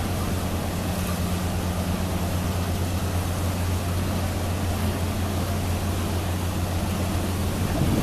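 The Queen Beetle high-speed ferry's engines running steadily, a deep even hum, over a hiss of wind and water.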